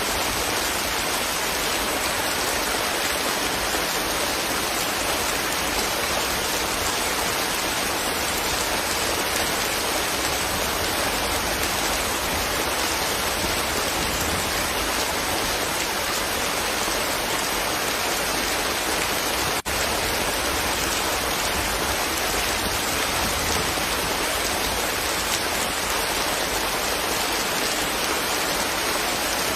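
Steady, even rain, a dense hiss of falling drops with no let-up, broken only by a momentary dropout about two-thirds of the way through.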